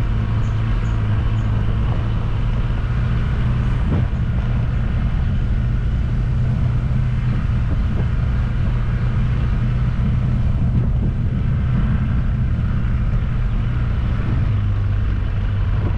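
A vehicle's engine running steadily with road noise while driving, with a couple of faint knocks about four and eight seconds in.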